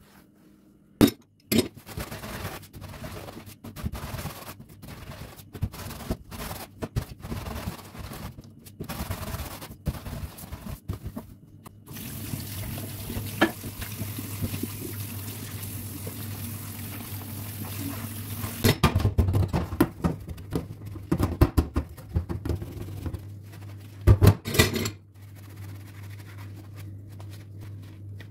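Kitchen cleanup: knocks and clatter of items being handled, and a kitchen tap running steadily for about six seconds from around twelve seconds in before it is shut off, followed by more clatter.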